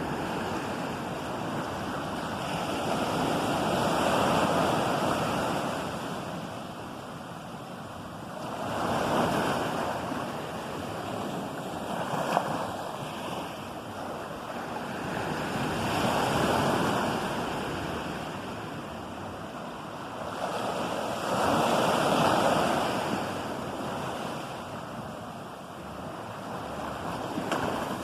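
Ocean surf: waves breaking and washing in. The roar swells and falls, with a wave cresting about every six seconds.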